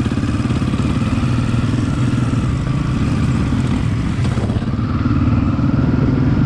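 Off-road vehicle's engine running steadily while under way, getting a little louder about five seconds in.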